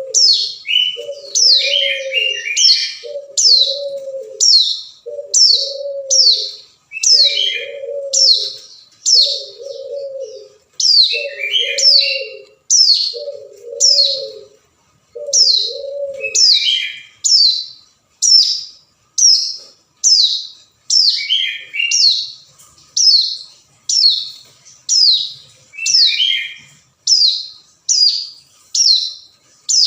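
Ciblek gunung, a prinia, giving its calling song: a steady series of sharp, falling high notes about one to two a second, now and then followed by a short lower chatter, the call used to draw out a rival bird. Underneath, a lower note repeats about once a second for the first half, then stops.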